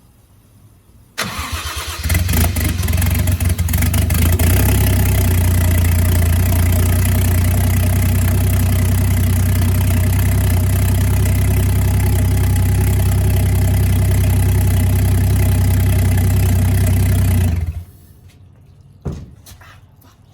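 Toyota 1JZ inline-six engine being started for the first time: the starter cranks briefly, then the engine catches and idles steadily, and it is shut off suddenly near the end.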